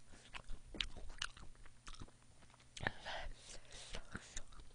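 Quiet chewing close to a headset microphone, with a few soft, scattered clicks.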